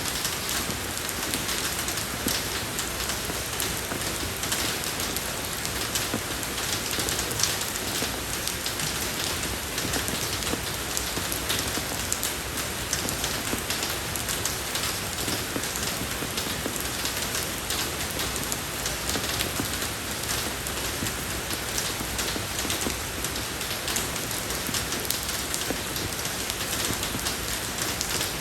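Steady rain falling on a road surface, a dense even hiss of many small drop impacts.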